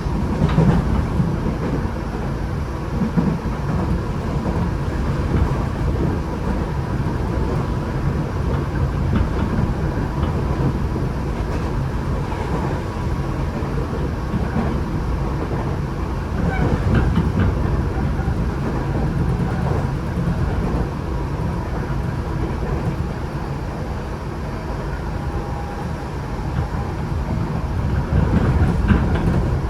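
Running noise inside a Tokyo Metro 8000 series car with Mitsubishi IGBT-VVVF control: a steady rumble of wheels on the rails, with a faint steady high tone.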